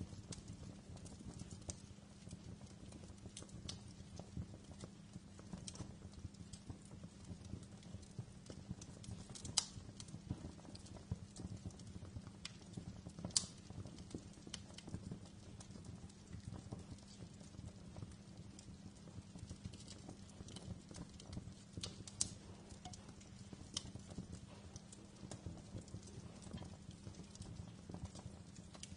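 Wood fire burning in a fireplace: a steady low rumble of the flames with irregular crackles and pops, a few sharper snaps standing out.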